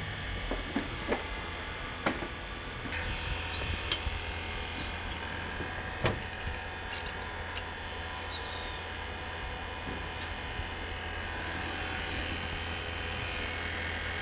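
Vacuum pump running steadily as it evacuates the air conditioner's refrigerant lines, with a few sharp knocks.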